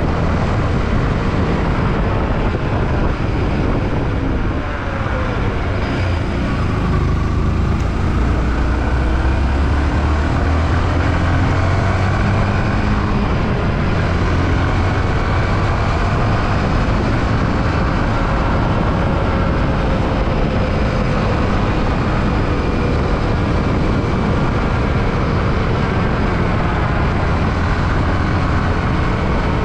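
Yamaha WR155R's single-cylinder engine running while the motorcycle is ridden, its pitch slowly rising and falling with the throttle, over a steady rush of wind and road noise.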